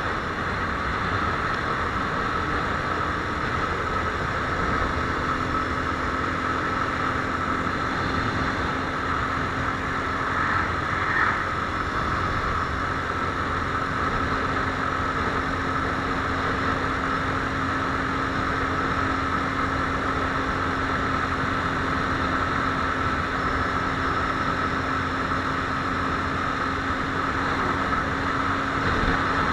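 Viper R2 motorcycle running at a steady speed, its engine note held even over a constant rush of noise.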